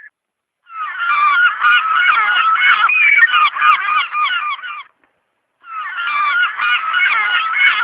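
A large flock of geese honking, with many calls overlapping. There are two bouts, separated by a short break about five seconds in.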